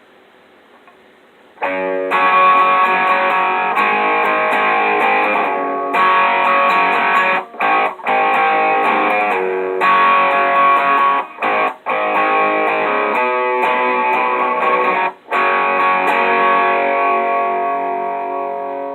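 Ibanez Destroyer electric guitar played through an Electro-Harmonix Screaming Bird treble booster set at about 11 o'clock, into a clean 6L6 valve amp, giving a brighter, more brilliant tone. The playing starts after a short pause, about two seconds in, breaks off briefly a few times, and ends on a note or chord left ringing and fading.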